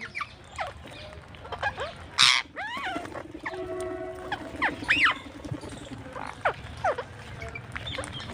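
Birds calling: many short chirping calls that slide quickly up and down in pitch, with one loud harsh squawk about two seconds in.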